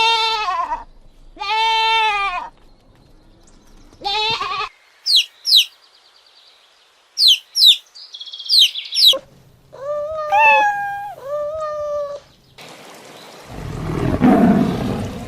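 Goats bleating in several separate short calls, each a wavering, arched cry. Midway comes a run of high, quickly falling chirps from another animal, and a low rough noise near the end.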